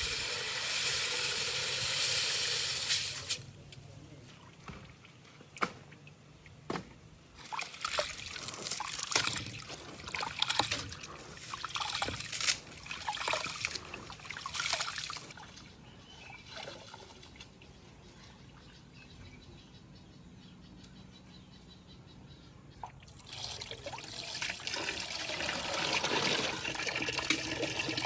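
Water pouring and splashing, with scattered knocks and clatters in between.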